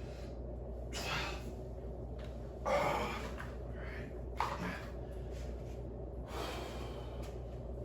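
A man's hard, forceful breathing while lifting weights: four or so sharp, noisy exhalations about one to two seconds apart, over a steady low hum.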